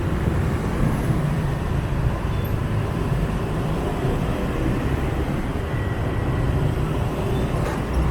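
Scooter ride in dense motorbike traffic: the riding bike's engine and the surrounding traffic make a steady low rumble with road noise, without a break.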